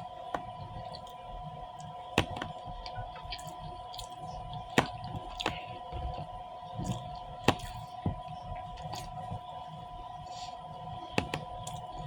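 Close-up eating sounds: soft mouth noises with about six sharp clicks spread through, over a steady two-tone hum.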